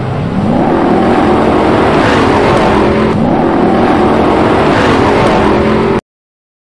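Off-road rally car engine revving hard under acceleration, its pitch climbing and dropping back again and again as it pulls through the gears; it cuts off suddenly near the end.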